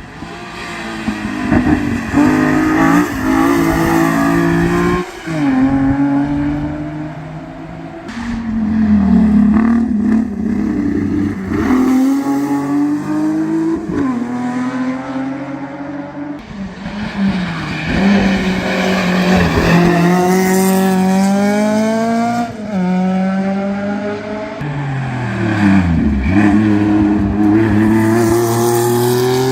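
Historic competition cars at full throttle on a hill climb. The engines rev hard, the pitch climbing steadily and dropping sharply at each gear change, again and again.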